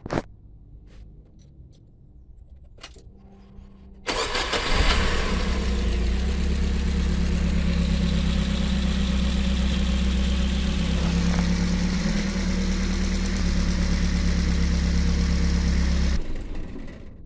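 Dongfeng C37 minivan engine started about four seconds in and idling steadily with the alternator drive belt removed, then switched off near the end. The abnormal noise is gone with the belt off, a sign that the fault lies in a belt-driven part, here a failing water pump.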